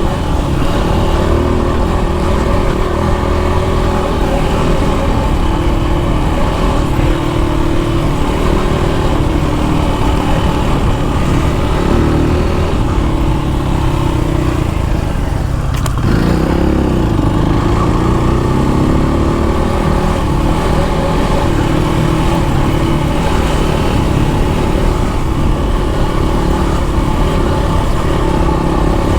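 Dirt bike engine running continuously on a trail, its pitch rising and falling with the throttle. About halfway through there is a sharp click, then the revs drop and climb again.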